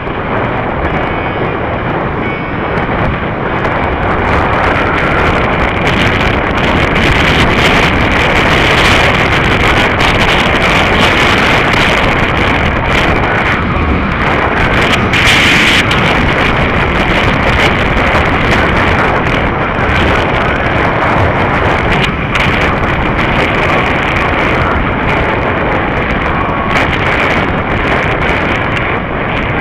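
Loud, steady wind noise buffeting the microphone of a rider moving at speed, with frequent short gusts.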